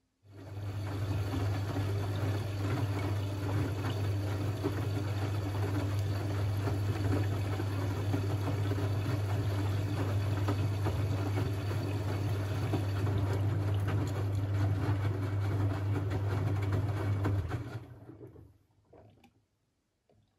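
A Siemens Siwamat 6143 washing machine's drain pump switches on suddenly and runs for about seventeen seconds with a steady deep hum over the sound of water being pumped out. It cuts off near the end, with a short gurgling trail.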